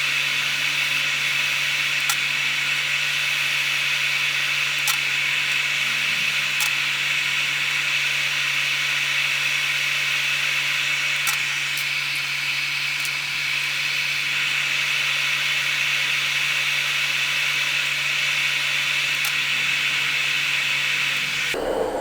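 Hot air rework station blowing with a steady hiss and a low hum, cutting off abruptly just before the end.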